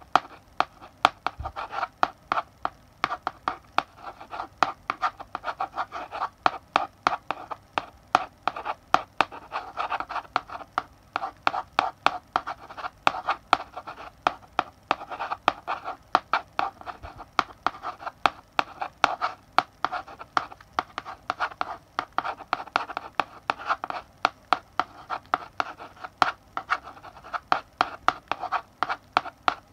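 Chalk writing on a blackboard: a steady run of scratchy strokes broken by frequent sharp taps as the chalk tip strikes the board, several a second.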